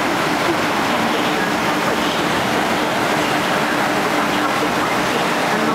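Steady rushing train noise at a station platform, with a faint hum beneath it that cuts in and out.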